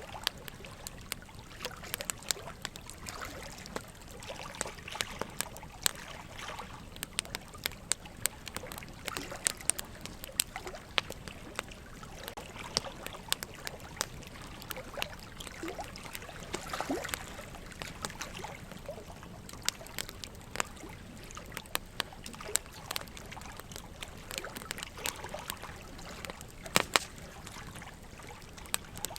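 Wood fire crackling, with frequent sharp irregular pops and snaps, over a steady trickle of running water with the odd gurgle.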